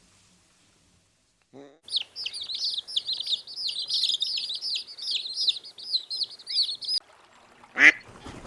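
A small bird chirping: rapid high chirps, several a second, for about five seconds. A short, louder call follows near the end.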